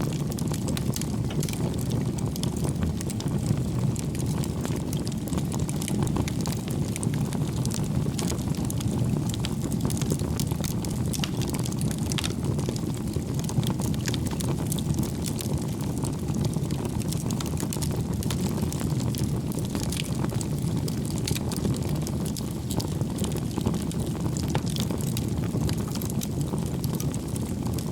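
Wood fire burning in a fireplace: a steady low rumble of flames with frequent small, irregular crackles and pops of burning firewood.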